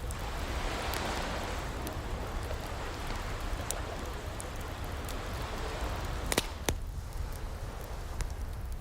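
Wood fire crackling, with two sharp pops about six and a half seconds in, over the hiss of a gentle ocean wave that swells and washes in near the start.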